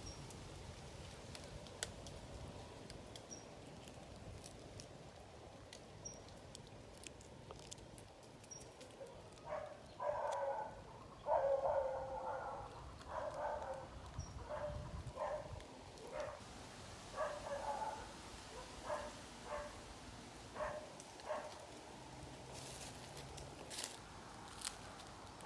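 An animal giving a series of short, bark-like calls, loudest at the start, then growing fainter and more spaced out before stopping.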